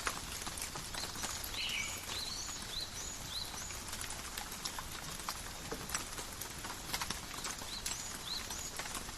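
Steady light rain falling in a forest, with scattered individual drops tapping sharply. A bird calls a quick series of short, high chirps about a second and a half in, and twice more near the end.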